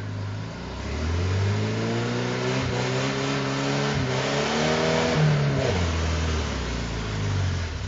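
Toyota four-wheel-drive's engine revving up about a second in, held at high revs for several seconds, then dropping back near the end, as it pushes through a mudhole with its tires spinning in the mud.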